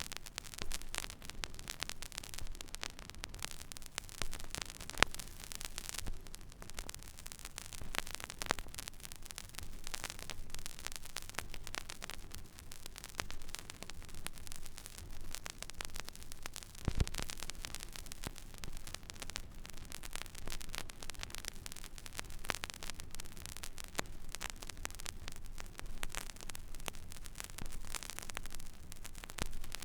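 Record player stylus tracking an empty, silent vinyl groove: steady surface hiss with frequent small crackles and pops. There is a louder pop about five seconds in and a low thump in the middle, with a faint low hum underneath.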